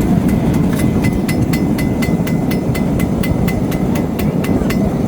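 Hammer blows ringing on steel, about four a second in a steady run that stops near the end, over the steady noise of a forge burner.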